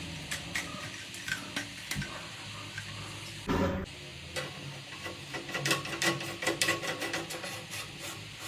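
Hand work with tools: scraping, with a run of short clicks and taps that come thicker in the second half and one louder scrape about three and a half seconds in.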